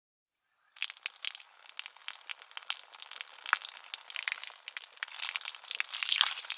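Close-up crinkling and crackling of dry craft material being crushed and worked by hand, a dense run of small crackles that starts abruptly about a second in.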